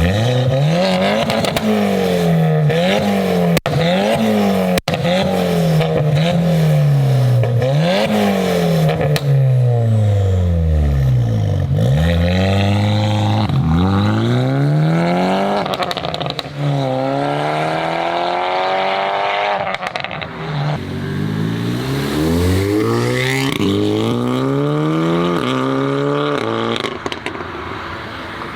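Volkswagen car engine revving hard over and over, its pitch climbing and dropping sharply many times, with a few longer falls to a low note that swing back up.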